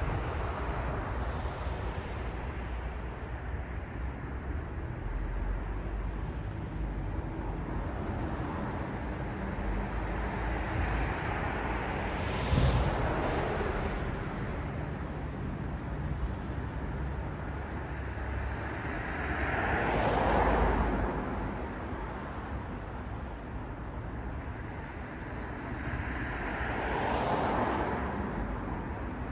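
Night city street traffic: a steady hum of traffic, with vehicles passing close by three times, each swelling up and fading away. A short sharp knock comes during the first pass.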